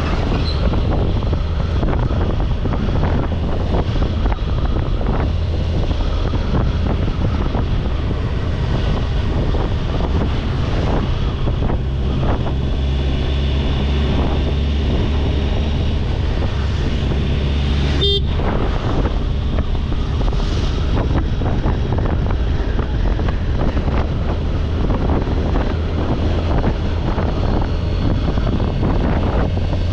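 Kawasaki Ninja 1000SX inline-four motorcycle on the move: a steady low engine rumble under heavy wind noise on the microphone. A short sharp beep, like a horn toot, cuts in once about two-thirds of the way through.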